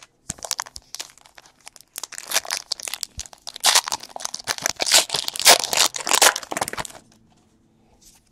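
Foil wrapper of a Donruss basketball card pack being torn open and crinkled by hand: a dense run of crackling and crinkling, loudest in the middle, stopping about a second before the end.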